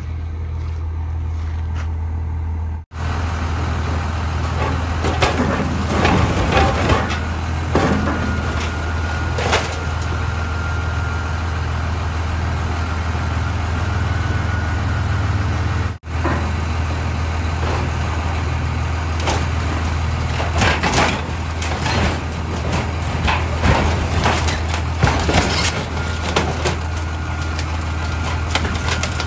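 A truck engine runs steadily under frequent clanks and rattles from the loaded trailer and its scrap.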